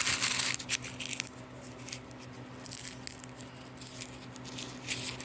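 Dry papery ground cherry husks crackling and tearing as they are pulled open by hand: a dense burst of crinkling at the start, then scattered smaller crackles. A steady low hum runs underneath.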